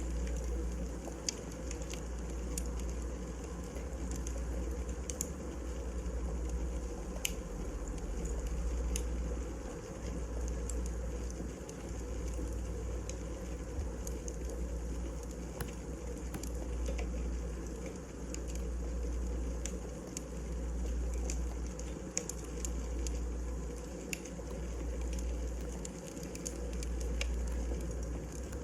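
Burning firewood in a fireplace, crackling with scattered sharp pops over a low rumble that swells and fades every couple of seconds.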